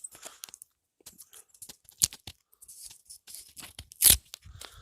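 Close handling noises: scattered light clicks and tearing sounds, with two sharp cracks, the louder one about four seconds in.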